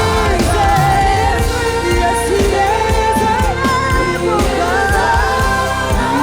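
A worship band playing with singing over a steady beat, bass and keyboard.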